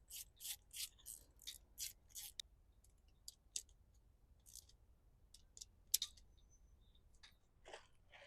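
Faint, quick, rhythmic rasping strokes from a hand tool working on an outboard engine, about four a second, stopping after a couple of seconds. Scattered light clicks follow, with one sharp click about six seconds in.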